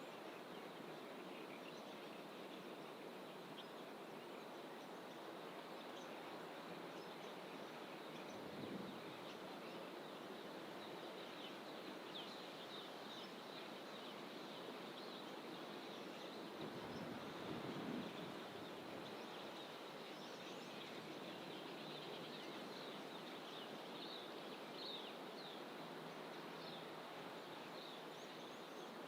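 Small birds in fynbos bush calling with many short, high chirps over a steady background wash of noise; the chirps are thickest in the middle stretch. Two brief louder swells of noise come about nine seconds in and again around seventeen to eighteen seconds.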